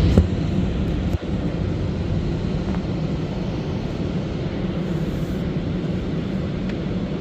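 Drying fans of an Istobal M'Wash 3 touchless car wash blowing air over the car with a steady roar, dipping briefly about a second in.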